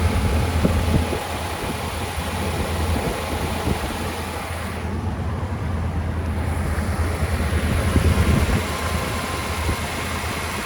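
1957 Ford Thunderbird's 312 Y-block V8 idling steadily, tuned up and running smoothly.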